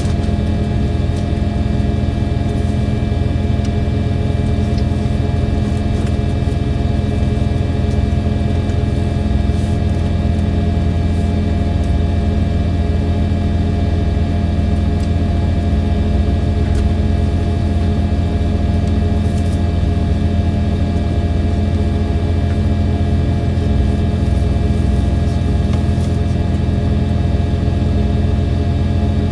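KiHa 283 series diesel railcar's engine running steadily at an unchanging pitch, heard from inside the moving train.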